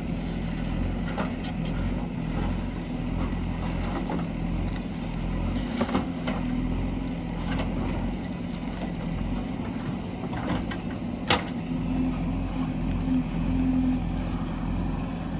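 JCB 3DX backhoe loader's diesel engine running steadily, with scattered clanks and knocks from the working machine; the sharpest knock comes about eleven seconds in.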